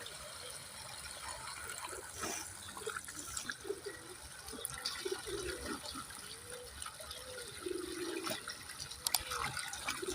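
Water running and gurgling, with short bubbling glides in pitch over a steady hiss.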